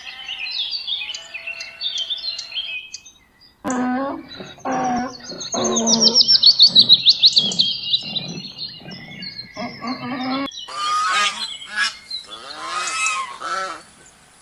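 Bird calls from several recordings joined one after another. High chirping song comes first, and after a short break loud repeated calls with a fast high trill in the middle. Near the end a different recording of calls cuts in.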